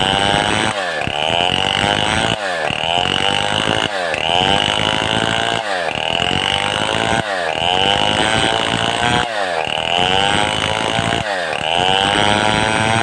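Stihl 070 two-stroke chainsaw at full throttle ripping a mahogany log. Its pitch drops sharply and climbs back about every second and a half to two seconds, eight times over, as the chain loads up in the wood and frees again.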